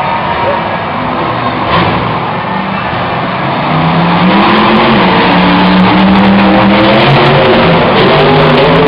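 Monster truck engine coming up about halfway in, revving up and then running loud and steady.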